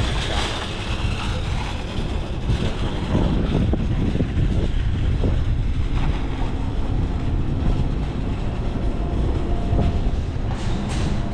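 Steady low rumble of wind on the microphone mixed with passing road traffic, heard from a moving bicycle.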